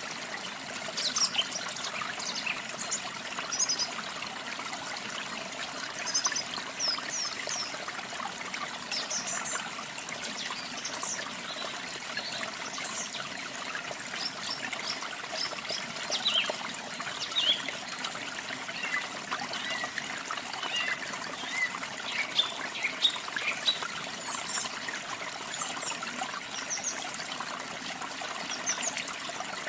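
Steady running water, like a trickling stream, under small birds chirping: many short, high chirps scattered throughout.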